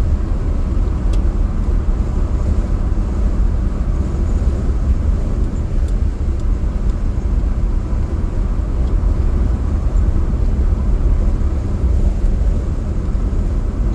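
Steady low rumble of a 1940 Nash cruising, its engine and road noise heard from inside the cabin.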